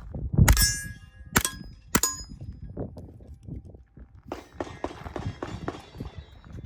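Three suppressed shots from a CZ Scorpion Evo 3 9mm carbine in the first two seconds, each followed by the clang and ring of a struck steel target. Quieter knocks and rattles follow.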